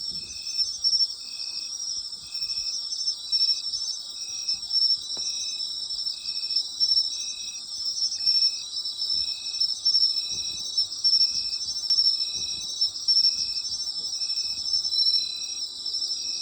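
Night chorus of autumn insects, several trilling together at a high pitch, with one chirping over them in a steady, regular rhythm.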